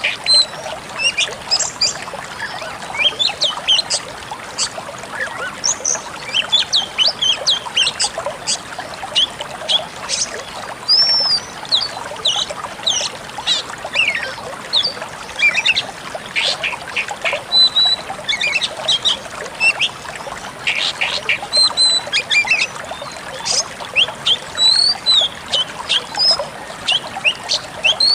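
Decu kembang songbird singing as a masteran recording: a rapid, unbroken run of short high chirps and whistles, some sliding up or down in pitch.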